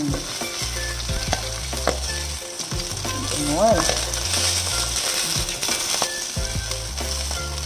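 Salmon fillets sizzling steadily in hot oil in a nonstick frying pan, with a few light clicks as metal tongs turn the fish against the pan.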